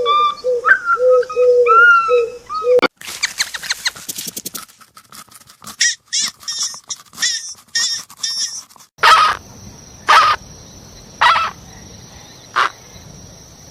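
A run of different animal calls: quick repeated pitched calls for the first few seconds, then rapid clicking and rattling chatter, then single sharp calls about once a second over a steady hiss.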